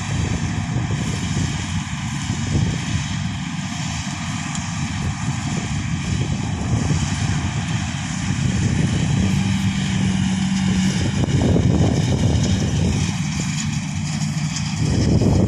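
Combine harvester running: a steady, loud engine drone mixed with the whirr of its machinery.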